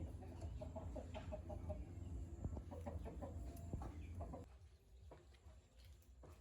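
A bird's calls, short notes repeated in quick runs, over a low steady hum that falls away about four and a half seconds in.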